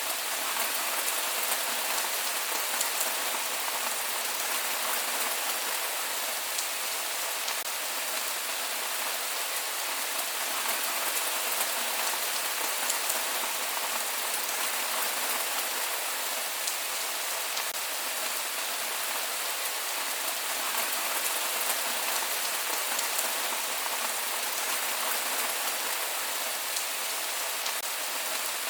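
Steady rain falling and pattering on surfaces, an even hiss of many fine drop ticks with no thunder.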